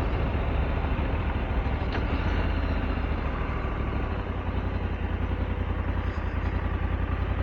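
2022 Honda Africa Twin's parallel-twin engine running at low revs, a steady low throb, with a steady hiss of road and wind noise.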